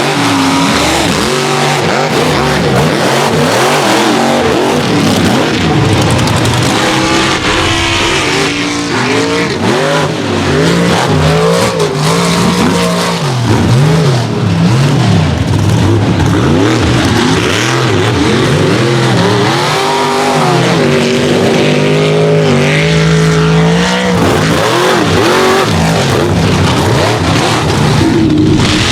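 Mega truck engines revving hard under full throttle, their pitch climbing and dropping again and again as the trucks race.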